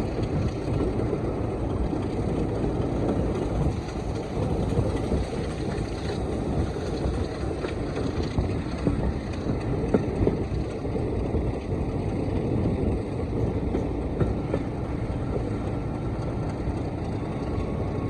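Diesel-hauled heritage train running, heard from on board: a steady, loud rumble of the locomotive and wheels on rail, with a few sharp knocks from the track.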